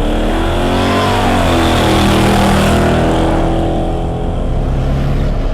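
A car engine revving hard at high rpm: its pitch climbs over the first second, holds high for a few seconds, then eases off slightly near the end, with a loud rushing hiss over it.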